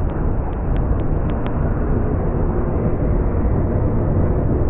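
Norfolk Southern freight train's cars rolling past, a loud steady rumble with a few light clicks in the first second and a half.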